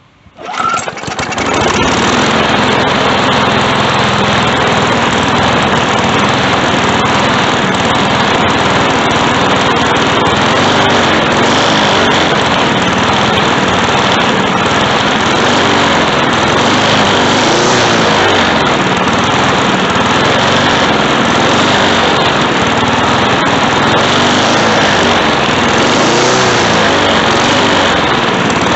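Briggs & Stratton 148cc push-mower engine starting about half a second in, then running steadily and loudly. It is being test-run with its governor spring just shortened and stretched to curb surging.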